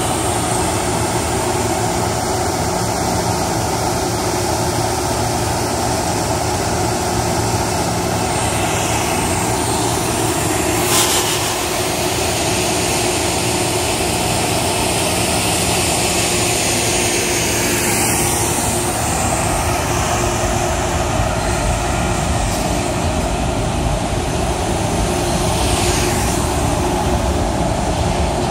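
Metro-North M3A electric multiple-unit train at the platform, its equipment running with a steady hum and a held tone. A single sharp knock about 11 seconds in.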